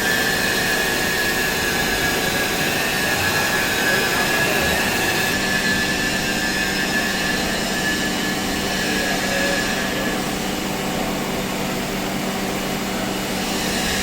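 Hydraulic wheel press's pump unit running with a steady machine whine and hum. Its note changes about five seconds in, and a high tone fades out about ten seconds in.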